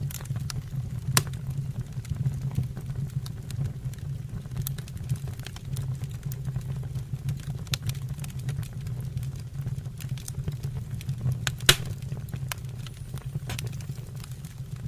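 Fire burning in a fireplace, crackling with scattered sharp pops over a steady low rumble; one louder pop comes about three-quarters of the way through.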